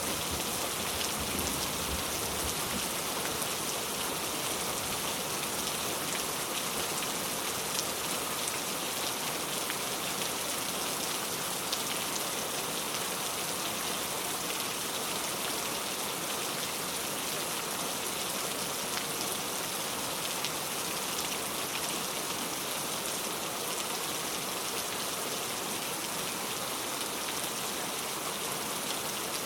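Heavy rain falling steadily, a dense even patter of drops with no let-up.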